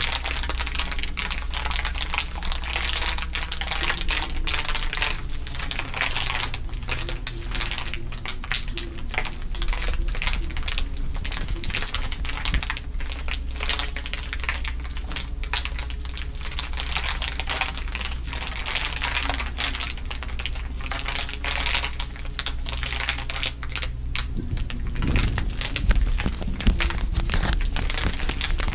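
Dense, continuous crinkling of layered crinkly material, a stream of small crackles over a steady low hum, with a couple of sharper crackles near the end.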